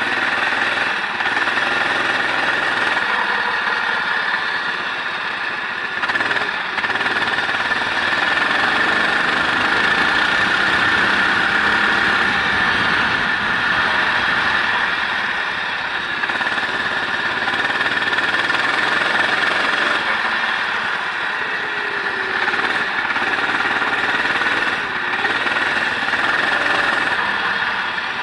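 Racing vehicle's engine heard from onboard while lapping a wet circuit, running hard with small dips in loudness every several seconds as the throttle is lifted and reapplied.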